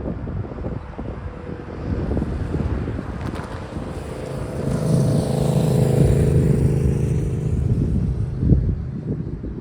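BNSF manifest freight train rolling through a grade crossing, with a steady engine hum that swells from about halfway through and fades again, and a sharp clank near the end.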